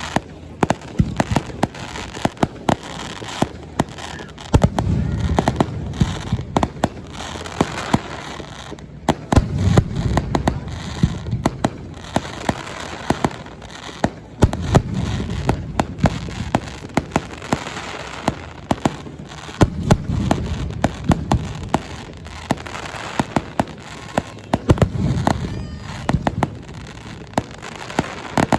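Fireworks display: a dense run of sharp crackling pops, with deep booms of shells bursting about every five seconds.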